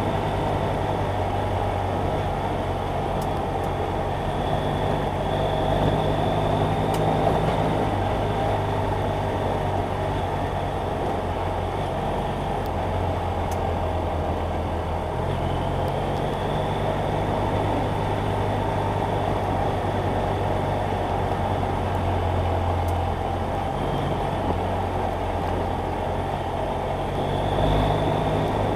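BMW F800GS Adventure's parallel-twin engine running while riding, under steady wind and road noise. The engine note changes pitch about halfway through and again near the end.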